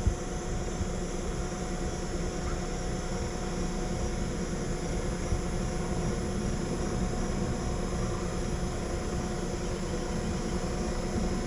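Outdoor air-conditioner condenser running steadily with its compressor and fan, just after the compressor has started without locking its rotor: an even whir with a constant low hum.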